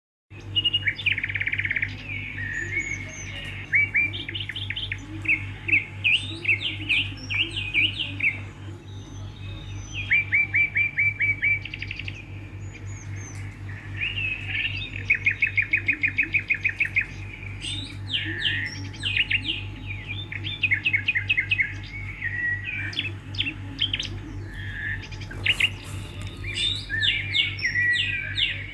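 Swiftlets twittering: quick runs of sharp, high chirps repeated over and over, with a few short lulls, over a steady low hum.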